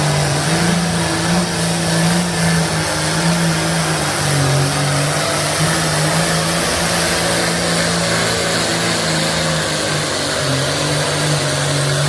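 Pulling tractor's engine running hard at sustained high revs under load, a loud steady deep note with a thin high whistle above it.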